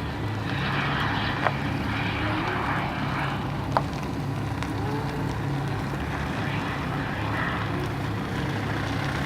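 A steady low engine drone, with two sharp clicks about a second and a half and nearly four seconds in, and faint distant voices.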